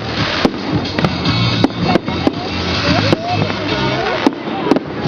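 Fireworks going off in a rapid, irregular string of sharp bangs and crackles, with music and crowd noise underneath.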